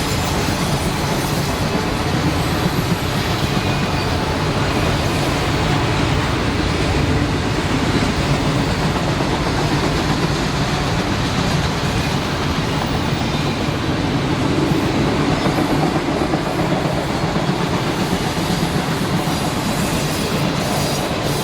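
A freight train's cars rolling steadily past, a continuous noise of steel wheels on the rails.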